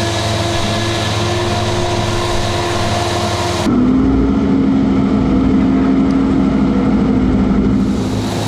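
Heavy farm machinery running steadily under load while chopping silage: the big diesel engines of a forage harvester and tractors. About three and a half seconds in the sound switches abruptly to a steadier, lower engine tone, and switches back near the end.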